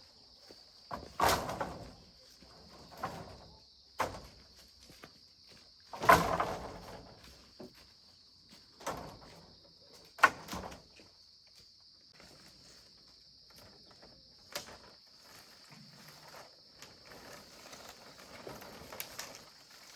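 Scattered knocks, sharp clicks and short rustling or scraping noises at irregular intervals, the loudest about a second, six seconds and ten seconds in, over a steady high insect chirring.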